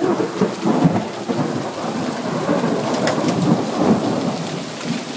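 Heavy rain coming down in a loud, steady rush, with a few sharper clicks of drops striking nearby.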